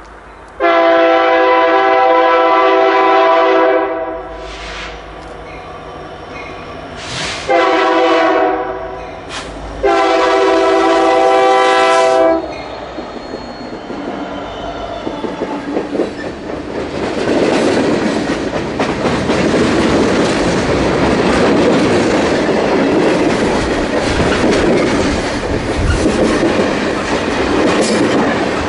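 Locomotive air horn sounding three blasts, long, shorter, long. Then a train rolls past close by with a steady rumble and clatter of wheels on the rails.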